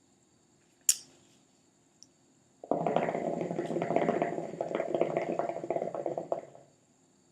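Hookah water base bubbling steadily for about four seconds as smoke is drawn through it, preceded by a single sharp click.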